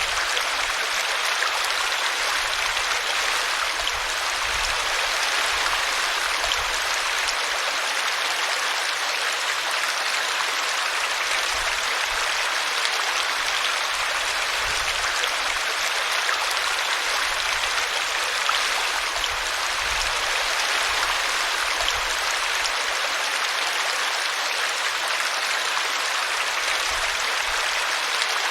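Small brook flowing over a tree root: a steady, even rush of running water.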